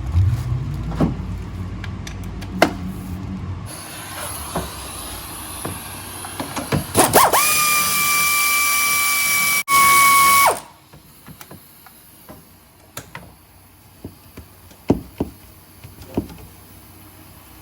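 Pneumatic hand tool running on shop air: a loud air hiss, joined by a steady high whine from the spinning tool that cuts off sharply about ten and a half seconds in. Afterwards come sharp metallic clicks and knocks of tools and parts being handled.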